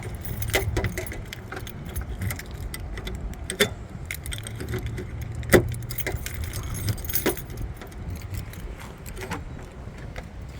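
Car keys jangling, with scattered clicks and knocks as the 1991 Lexus LS 400 is unlocked; one sharp click, about five and a half seconds in, is the loudest.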